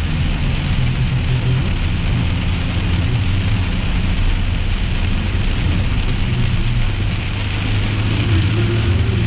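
Heavy rain drumming steadily on a moving car, over a low rumble of engine and tyres, heard from inside the cabin.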